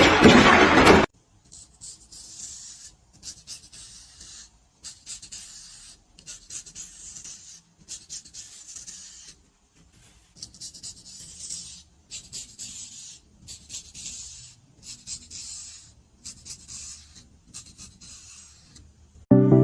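A loud burst of noise cuts off abruptly about a second in. It is followed by about a dozen quieter scraping or rubbing strokes, each around a second long, with short pauses between them.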